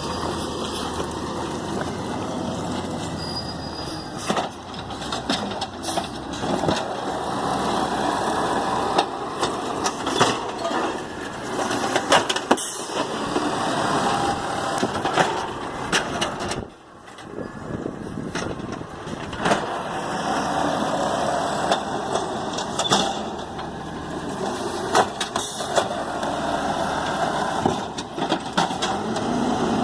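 Garbage truck running as it works, its engine and machinery making steady noise, with frequent sharp knocks and clanks and a short lull about two-thirds of the way through.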